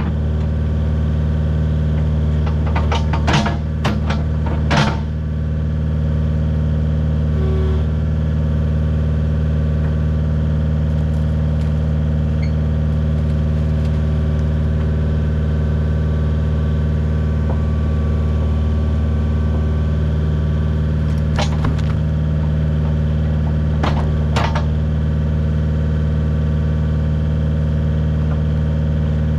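Kubota U55 mini excavator's diesel engine running steadily, with a few sharp knocks early on and again about two-thirds of the way through.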